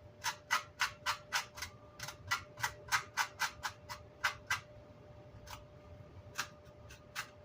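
Quick short scrubbing strokes, about four a second, on amplifier grill cloth as chipboard and glue remnants are knocked off it; the strokes stop about four and a half seconds in, and a few slower ones follow.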